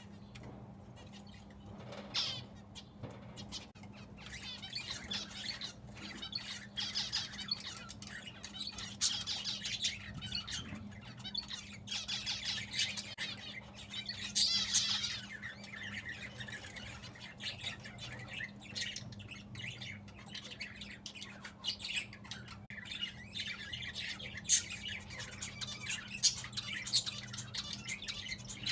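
Pet birds chirping and squawking, many short high calls overlapping without a break. A steady low hum runs underneath.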